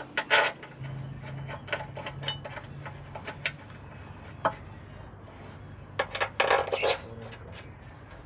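Metal clinking and clattering, as of tools or steel parts being handled and set down: a cluster of clinks at the start, scattered single clinks, and a second busy cluster about six seconds in. A steady low hum runs underneath.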